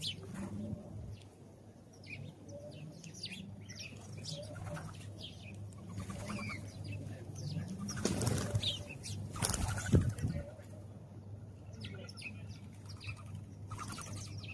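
House sparrows chirping in short, repeated notes, with loud bursts of bird wings flapping about eight seconds in and again near ten seconds.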